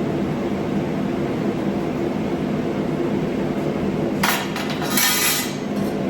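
Steady machine hum, with a sharp metallic clink about four seconds in and a brief hiss just after it.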